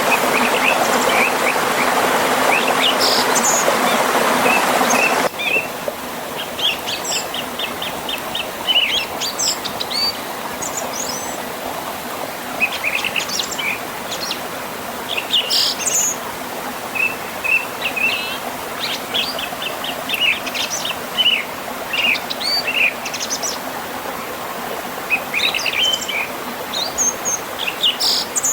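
Songbirds chirping and calling throughout in many short, quick notes. Over the first few seconds there is also the steady rush of a stream, which cuts off abruptly about five seconds in, leaving the birdsong over a much quieter background.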